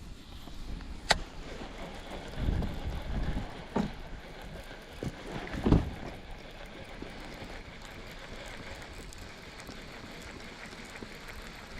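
Handling noises on a fishing boat: a sharp click about a second in, then a few dull thumps and knocks up to about six seconds in, over a steady hiss of wind.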